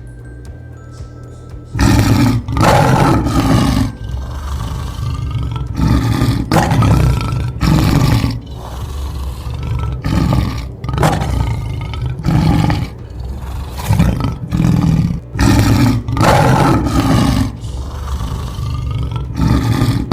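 Lion roaring again and again, a long series of roars about a second each, starting about two seconds in, over light background music.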